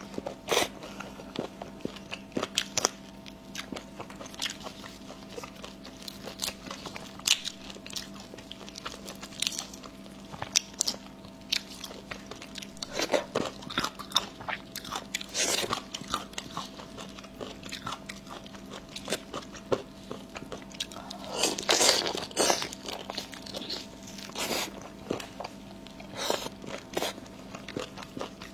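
Close-miked eating: chewing and crunching with many sharp clicks, and a few longer, louder bursts, one about halfway through and the loudest about three quarters of the way in. A faint steady hum sits underneath.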